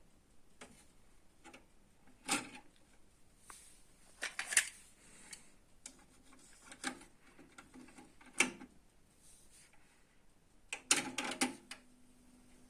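Clicks and knocks from handling a Yamaha KX-393 cassette deck: a few separate mechanical clicks, then a quick cluster of clicks near the end, followed by a low steady hum as the mechanism engages.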